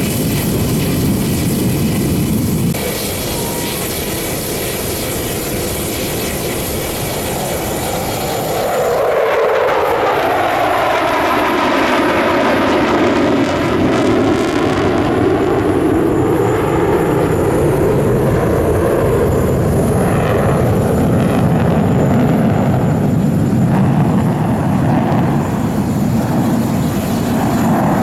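Su-30SM twin-engine jet fighters flying an aerobatic display, their jet engines loud throughout. About nine seconds in the sound swells and its pitch falls as the jets pass close by.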